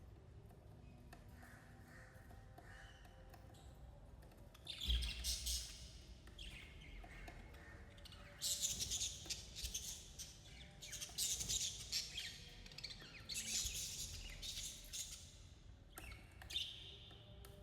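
Budgerigars chirping and chattering in repeated bouts, starting about five seconds in after a quieter opening.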